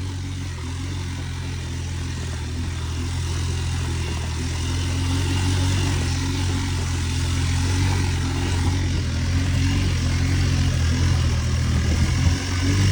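A motor vehicle's engine running steadily with a low hum over a hiss of wind and road noise, growing gradually louder, with a brief dip near the end.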